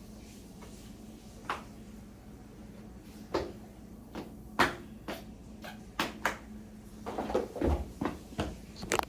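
Handling noises: scattered sharp clicks and knocks, then a denser run of bumps and thuds over the last two seconds, over a steady low hum.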